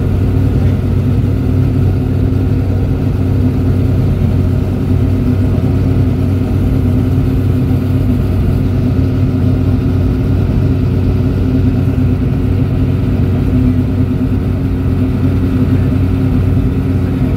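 Race car engine idling steadily, an even low hum that holds one pitch without revving.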